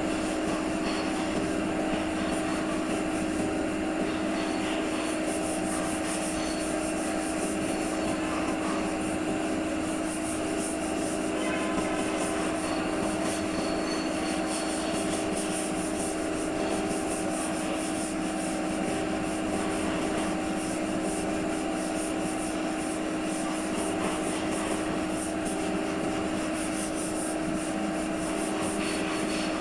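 Power sander running steadily on auto body panel work: a constant hum over a hiss of abrasive rubbing.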